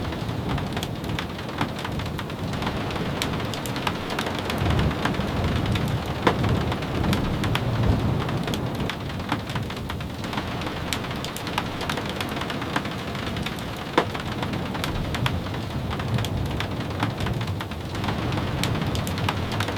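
Steady rain, with many sharp ticks scattered through it and a low rumble that swells now and then.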